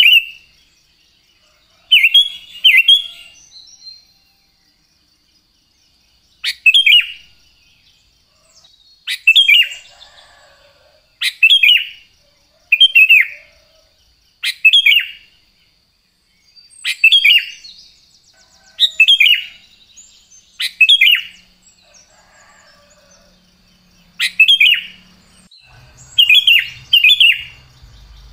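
Sooty-headed bulbul singing: short, bright, bubbling phrases, each under a second, repeated every couple of seconds. A faint steady high tone sits underneath them.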